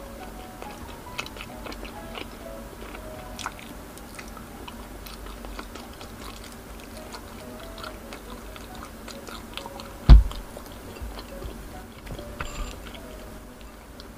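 Close-miked mouth sounds of a person biting and chewing grilled isaw, the Filipino intestine skewer, with many small wet clicks, over soft background music with a simple melody. About ten seconds in comes a single loud, deep thump.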